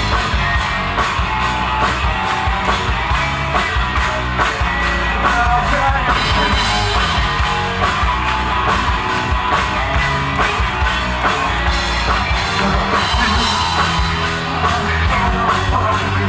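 A rock band playing live at full volume, with regular drum hits over a heavy bass and guitar sound.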